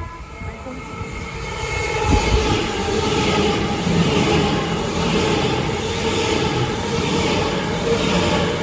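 Train running past on the rails: a steady rumble and drone with a held hum, building over the first three seconds and then holding loud.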